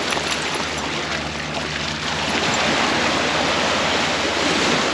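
Steady rushing of surf washing onto the beach.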